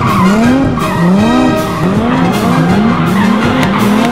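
A car engine revving up and dropping back over and over, two to three times a second and coming faster toward the end, as the car spins donuts with its tyres skidding.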